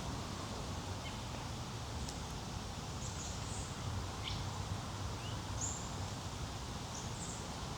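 Wild birds chirping: a scattering of short, very high chirps, several in quick pairs, with one falling note about four seconds in, over a steady low rumble.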